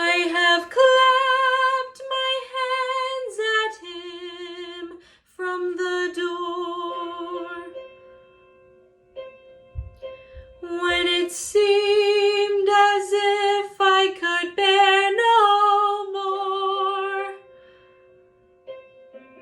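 Classical art song: a woman sings with vibrato over a piano accompaniment, in two long phrases separated by a pause of about two seconds midway.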